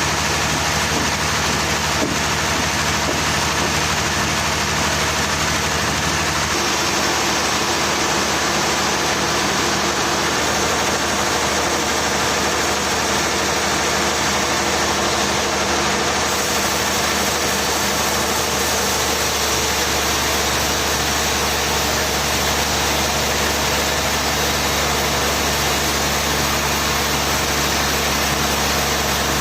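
A machine engine runs steadily and loudly, its low note shifting about six seconds in.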